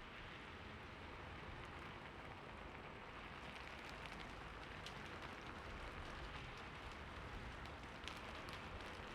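Heavy rain falling steadily, with many separate drop impacts ticking through the hiss.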